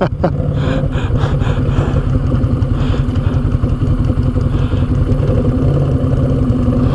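ATV engine idling steadily at a constant pitch.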